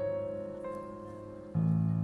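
Piano music: held notes fading away, then a new chord struck about one and a half seconds in.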